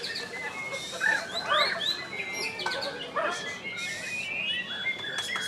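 White-rumped shamas singing over one another in a rapid run of varied whistles, chirps and sliding notes. One long held whistle runs through most of the second half.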